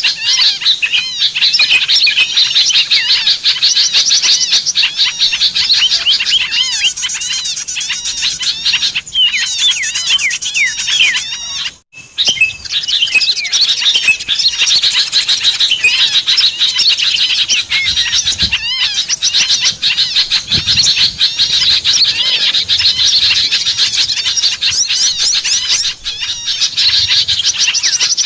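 Dense, unbroken chirping and twittering of many small birds, a lure recording made to draw small wild birds in. The chirps are rapid and high, with a brief break about twelve seconds in.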